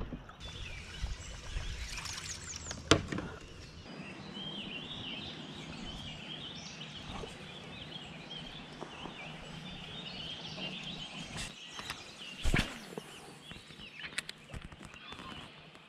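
Birds calling and chirping over a low outdoor background, with a few sharp knocks, the loudest about three-quarters of the way through.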